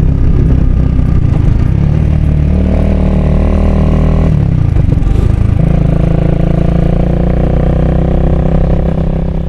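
Honda Rebel 250's single-cylinder engine running under way. Its pitch shifts up and down between about two and six seconds in, then it holds a steady note.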